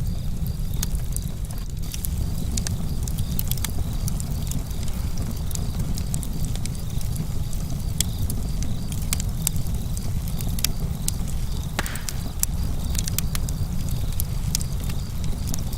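Campfire crackling, with frequent sharp pops and snaps over a steady low rumble, and a louder pop about twelve seconds in.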